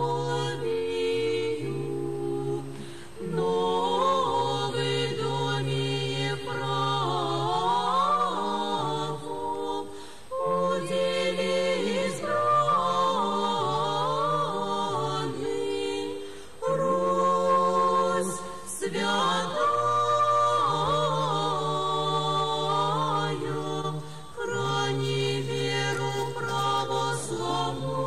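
An unaccompanied church choir singing Russian Orthodox liturgical chant in several parts, with held chords in phrases a few seconds long and short breaths between them.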